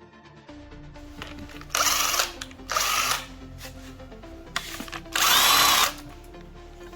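A power tool run in four short bursts of about half a second each, its pitch bending as it spins up and slows, the last burst the longest and loudest, over background music.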